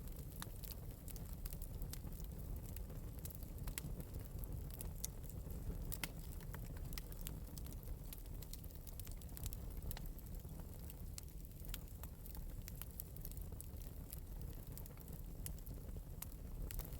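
Wood fire in an open metal fireplace crackling gently: scattered small pops and snaps over a steady low rumble of burning.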